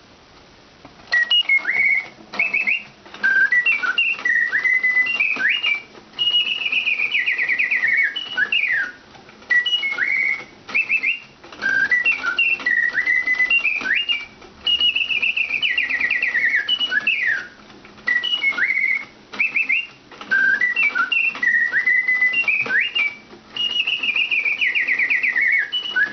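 Antique Bontems mechanical singing bird automaton whistling birdsong through its bellows-driven piston whistle, starting about a second in after its pause. Chirps and slides build to a fast falling trill, and the same phrase comes round three times.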